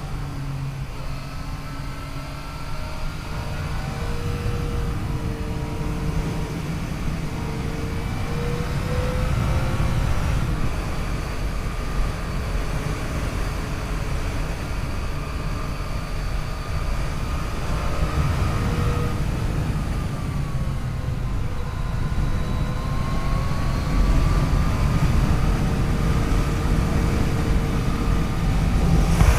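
Yamaha FJ-09's 847 cc three-cylinder engine running under way, its pitch rising and falling gently with the throttle, over a steady rush of wind and road noise.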